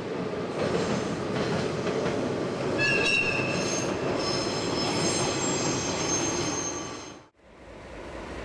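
Diesel locomotive hauling a Sanriku Railway railcar over a railway bridge: the rumble of the train with high-pitched wheel squeal setting in about three seconds in. The sound cuts off suddenly near the end, leaving a quieter steady background.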